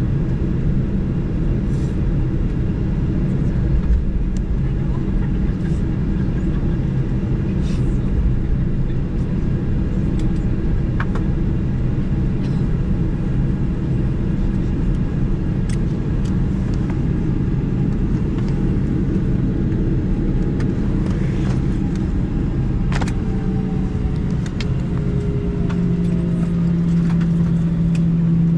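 Boeing 737-900 cabin noise at the gate: a steady low hum and rumble with scattered light clicks and knocks. A steadier pitched hum comes up in the last few seconds.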